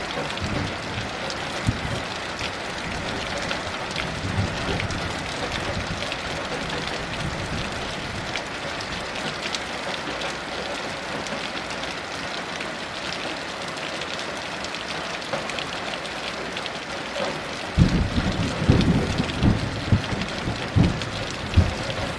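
Heavy rain falling steadily, with thunder rumbling low in the background; about three-quarters of the way in the thunder grows louder in uneven rolls.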